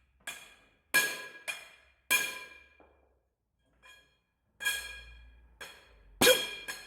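Hammer blows on steel, about eight irregularly spaced strikes, each with a bright metallic ring that dies away, with a short pause in the middle.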